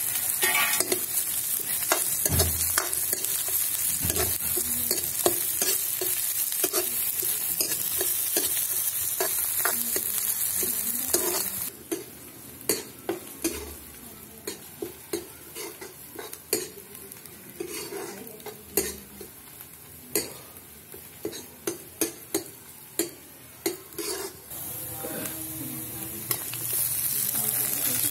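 Chopped onions sizzling in hot oil in a steel kadai, stirred with a steel ladle that scrapes and clicks against the pan. Partway through, the sizzle drops much quieter for a stretch and sharp separate ladle clicks stand out, then the loud sizzle returns near the end.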